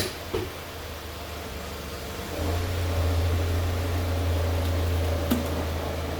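Nissan Altima's engine running, its low hum stepping up and holding louder from a little over two seconds in as the car is driven off the ramps. A short knock sounds right at the start.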